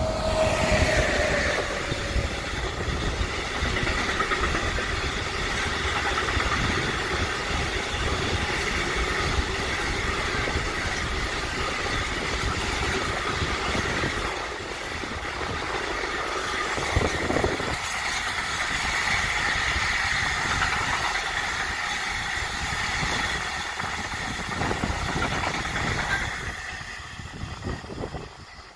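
Container freight train pulled by a PKP Cargo electric locomotive passing close by. The locomotive's tone falls in pitch as it goes past, then the wagons' wheels rumble and clatter steadily over the rails. The sound fades out near the end as the last wagon passes.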